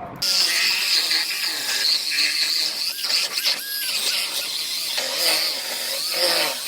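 Power tool cutting into the sheet-metal quarter panel of a car, starting abruptly and running with a continuous high-pitched whine and grinding hiss, its pitch dipping and recovering under load.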